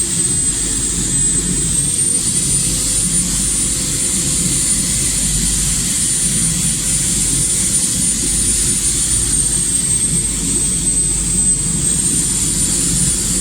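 A machine running steadily: an even rushing noise with a low rumble and a high, thin whine that sags slightly in pitch twice and comes back up.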